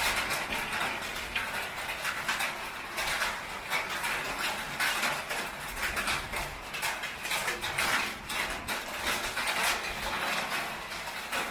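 Heavy rain falling on a tin roof: a dense, uneven clatter of drops striking metal.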